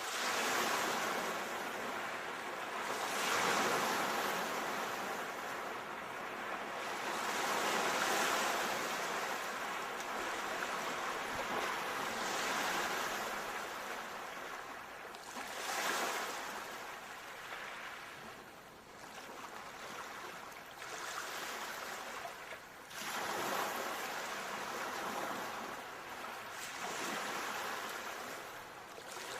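Ocean waves breaking and washing up the shore, a rushing surge that swells and ebbs every four or five seconds.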